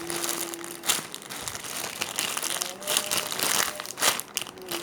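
Crinkling and rustling of plastic as a foam squishy toy is squeezed and handled, in irregular crackly bursts.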